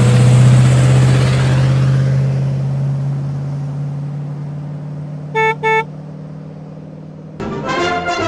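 Car engine running with a steady low drone, loudest at first and slowly fading. About five seconds in, a car horn gives two short toots. Near the end, brass music starts.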